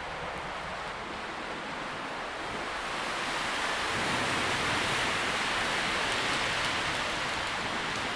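Tree leaves rustling in the wind: a steady hiss that swells with a gust about three seconds in and eases a little near the end.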